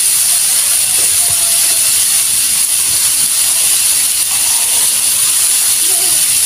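Chayote and squash frying in a hot wok, a steady sizzling hiss of steam as a little water meets the hot oil.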